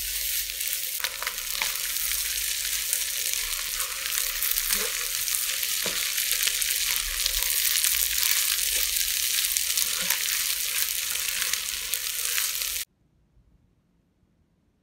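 Fried rice with bean sprouts sizzling in a hot wok while a wooden spatula stirs and tosses it, giving a steady frying hiss with a few short scrapes and knocks. The sizzle cuts off suddenly about 13 seconds in, leaving near silence.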